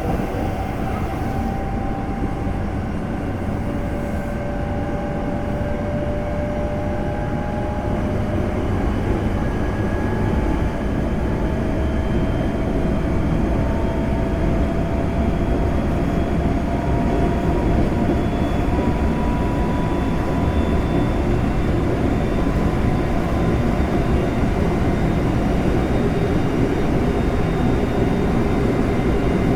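Onboard running noise of a Semboku Rapid Railway 5000 series electric train: a steady rumble of wheels on rail, with several faint whining tones from the Hitachi GTO VVVF inverter and traction motors slowly rising in pitch as the train picks up speed.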